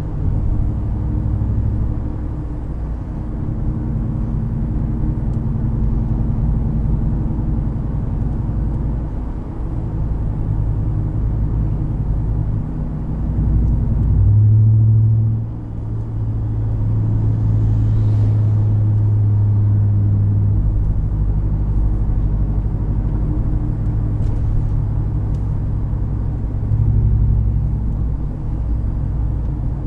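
2020 Ram 1500 Rebel pickup with an aftermarket Carven exhaust driving, its engine and exhaust a low steady drone that changes pitch in steps. About halfway it grows louder for a second or two, then drops off suddenly.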